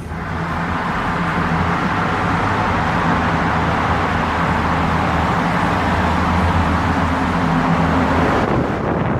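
Car driving through a road tunnel: loud, steady tyre and engine noise reflected by the tunnel walls, with a low engine hum under it. It comes in sharply at the start and drops away near the end.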